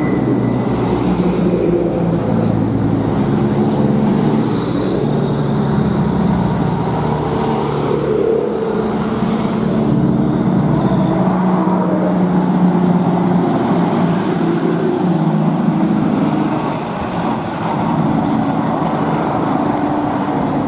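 Heavy diesel truck engine running under load, its pitch stepping up and down as the speed changes, with a brief dip in level late on.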